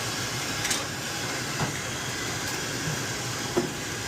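Steady rushing noise with a few faint knocks.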